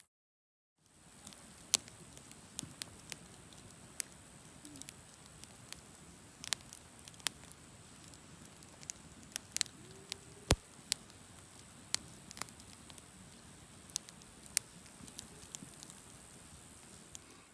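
Wood campfire crackling: irregular sharp pops and snaps over a soft low hiss. The sound comes in after a moment of dead silence at the start.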